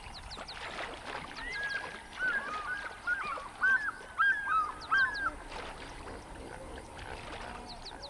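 A bird giving a quick series of short squawking calls, starting about a second and a half in and stopping a little past halfway, the loudest about five of them. Fainter, higher chirps from other birds sound around them.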